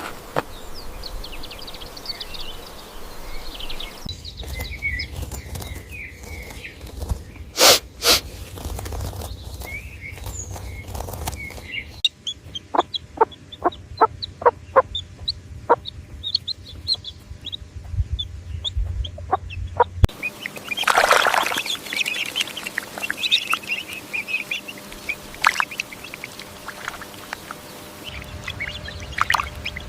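Short animal sound clips cut one after another every few seconds, mostly bird calls with chicken-like clucking and chirps, and a stretch of sharp regular clicks in the middle.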